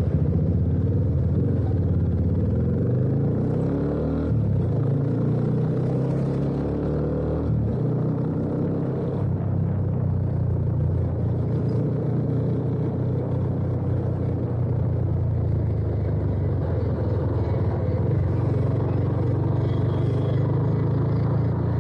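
2017 Yamaha FZ25's single-cylinder engine running through an aftermarket HT header pipe and Akrapovič-replica slip-on exhaust, riding under power. The pitch rises and drops sharply twice, about four and eight seconds in, as it accelerates through upshifts, then holds fairly steady while cruising.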